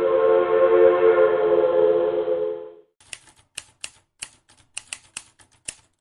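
A diesel locomotive's air horn sounds one held chord that cuts off abruptly a little under three seconds in. Then comes a run of sharp, irregular typewriter clicks, about a dozen over three seconds.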